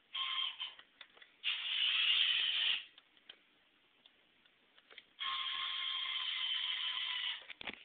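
Homemade K'nex RC truck's small electric motor and plastic gears whining in three bursts as it is driven, the last and longest lasting about two seconds, with quiet between them.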